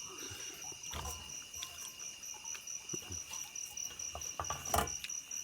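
Insects chirring steadily: a high, rapidly pulsing trill with a lower steady tone beneath. A few light clicks sound, with a sharper knock near the end.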